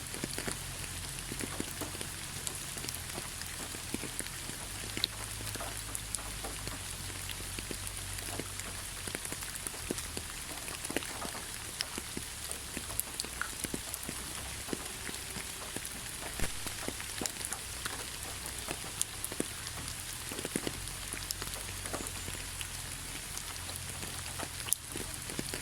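Heavy rain falling steadily, a constant hiss with many individual drops striking close by as sharp patters.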